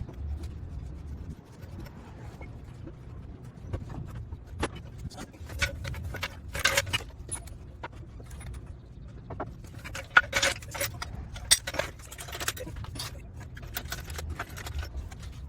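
Scattered metallic clinks and knocks, more frequent in the second half, over a low steady rumble, as a car's transaxle is eased on a jack into position against the engine.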